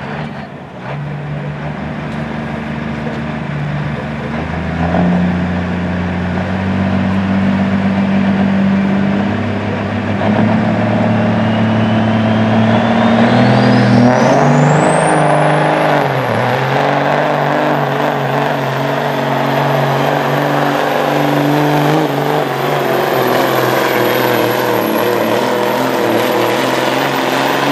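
Diesel semi truck engine working hard under load as it pulls a weight sled; the engine's pitch shifts and climbs. A high whistle rises over a few seconds around the middle and then holds steady to the end.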